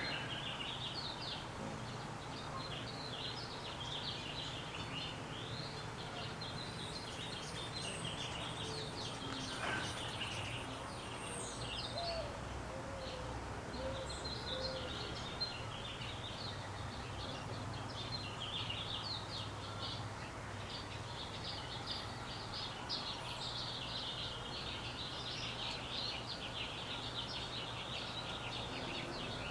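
Small songbirds chirping over and over, many short calls overlapping throughout, over a steady low hum.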